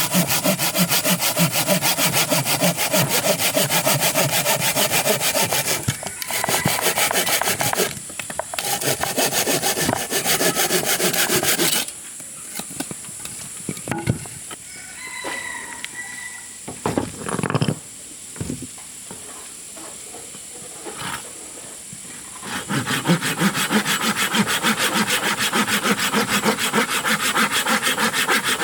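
Saw cutting through wood with rapid rasping strokes, stopping about twelve seconds in for a pause with a few knocks, then starting again near the end.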